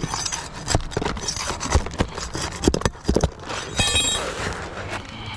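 Irregular knocks, clicks and scraping of a roofer's tool working at asphalt shingles to get at and pull their nails, with a brief high squeak about four seconds in.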